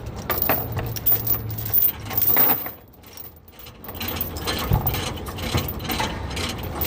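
Irregular mechanical clicking and clattering, with a low steady hum in the first two seconds.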